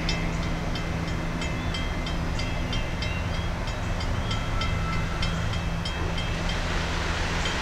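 Diesel locomotive running with a steady engine drone over a low rumble. A rapid, evenly spaced high ringing tick, about three a second, fades out near the end.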